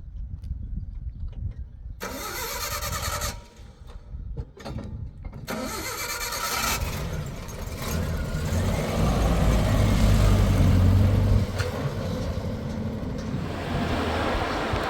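A vehicle engine being started: two spells of cranking, then it catches and runs, rising in speed about eight to eleven seconds in.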